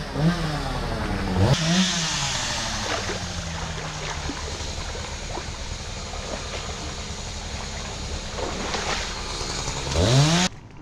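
Two-stroke chainsaw revving up and down in short bursts, running more steadily in between, then revving once more and cutting off suddenly near the end.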